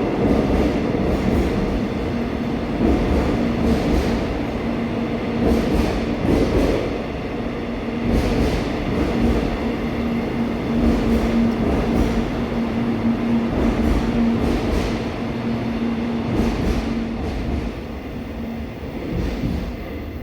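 Seoul Subway Line 4 electric train running through the station, its wheels clacking over rail joints at irregular intervals under a steady motor hum. The sound fades near the end as the train moves off.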